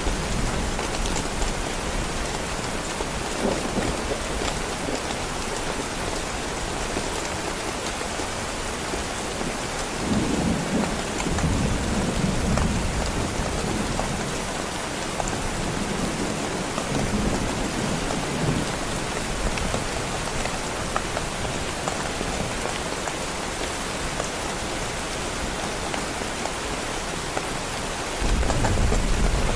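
Heavy rain falling steadily on a tent. Low rumbles of thunder roll in about a third of the way through and again a little past halfway, and a louder rumble starts near the end.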